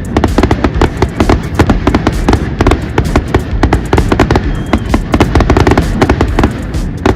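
Aerial fireworks exploding in rapid succession: many sharp bangs a second over a low rumble.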